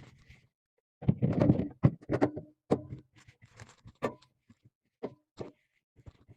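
Irregular knocks, clatter and rubbing of items being handled while a refrigerator is being cleaned, busiest in the first couple of seconds.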